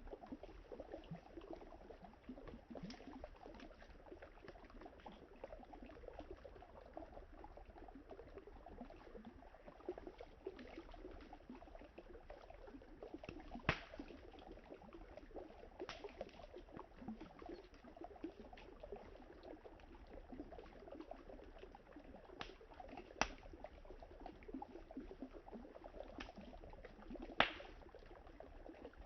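Wood campfire crackling, with a handful of sharp pops, the loudest about halfway through and near the end, over the steady gurgle of flowing river water.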